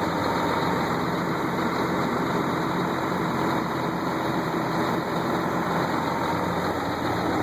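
Sterling roll-off truck's diesel engine idling steadily just after a cold start, warming up.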